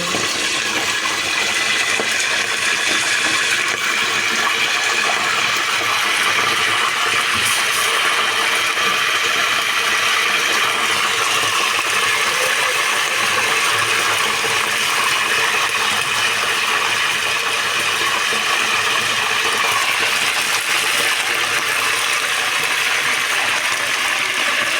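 Chicken sizzling: a steady, dense crackle of many fine pops that holds evenly throughout.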